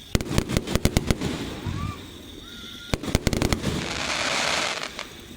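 Fireworks: a rapid volley of sharp cracks and bangs, a second volley about three seconds in, then a rushing hiss lasting about a second.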